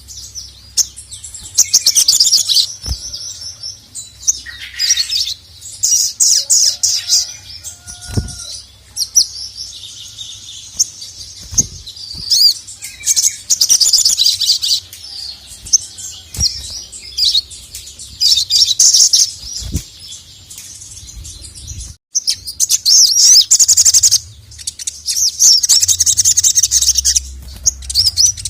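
Sogon (sogok ontong), a spiderhunter, singing loudly in rapid, high chattering phrases of a few seconds each, repeated with short pauses. A few short low thumps fall between the phrases.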